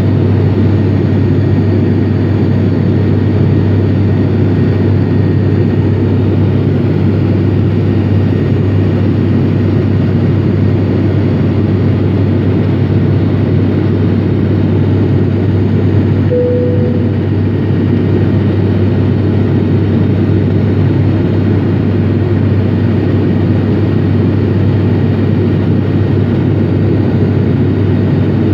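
Cabin noise of an ATR72-500 twin turboprop in flight: the steady loud drone of its Pratt & Whitney PW127 engines and six-blade propellers, with a strong low hum. A brief single tone sounds about halfway through.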